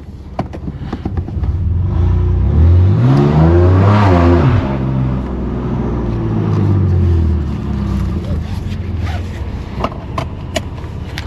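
BMW M3's S55 twin-turbo inline-six with a straight-piped exhaust, revving up about two seconds in, peaking near four seconds, then dropping back to a lower steady drone. A few sharp clicks come near the end.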